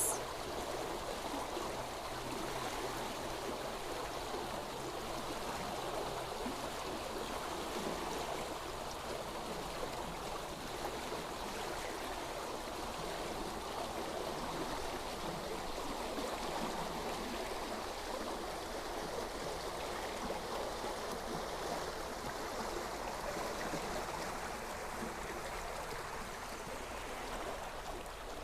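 Water of a stream flowing steadily: an even, unbroken rush of running water.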